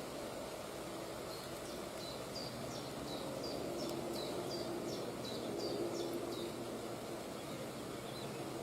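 A bird calling a rapid series of short, high, downward-dipping notes, about three a second, that starts about a second in and stops past the middle. Behind it runs a steady low outdoor background rumble.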